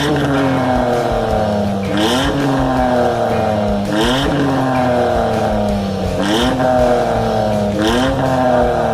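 Car engine revved through a loud, aggressive aftermarket sport exhaust muffler. Repeated throttle blips come about every two seconds, each rising sharply and then dying away slowly.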